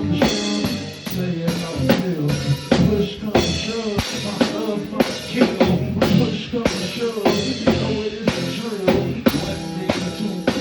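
Band music with a drum kit playing a steady beat, kick drum and snare with rimshots, over bass and other pitched instruments.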